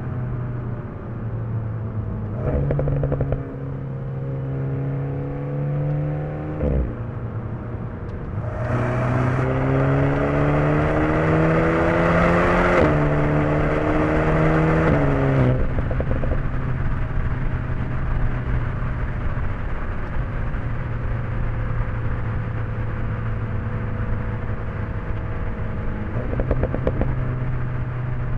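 Alpine A110 S's turbocharged 1.8-litre four-cylinder engine pulling through the gears. It climbs gently in pitch and drops suddenly at a shift about a quarter of the way in. From about a third in it accelerates harder and louder, with another shift midway and a drop just past the middle. It then settles into a steady cruise with the pitch slowly falling.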